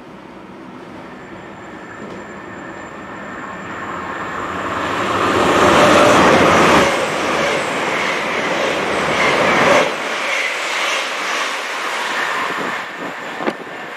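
A Great Western Railway Intercity Express Train passing through the station at speed: a rushing noise of wheels on rail and moving air that builds and peaks about six seconds in. About ten seconds in the sound changes abruptly to another IET approaching, at a lower level.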